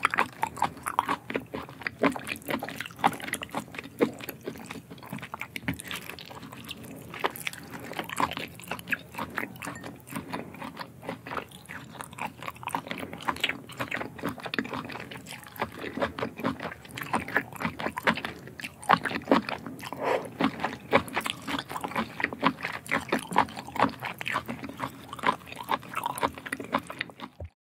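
Close-miked chewing and slurping of octopus tentacles: a dense run of quick wet clicks and smacks from the mouth and sticky fingers, which cuts off abruptly near the end.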